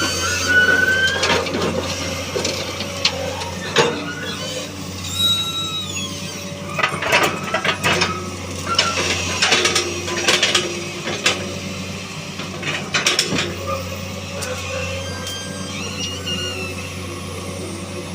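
Excavator's diesel engine running steadily under working load, with short squeals and repeated knocks and clatter as it handles wooden pallets, the knocks bunched about 3–4 seconds in, through the middle, and again about 13 seconds in.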